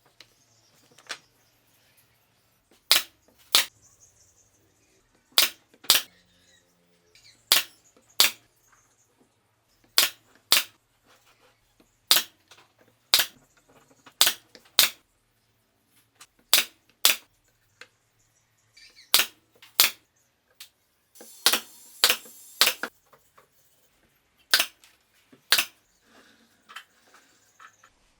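Sharp snaps of a tool driving fasteners into wood, mostly in pairs about half a second apart and repeating every couple of seconds, with a short hiss about three quarters of the way through.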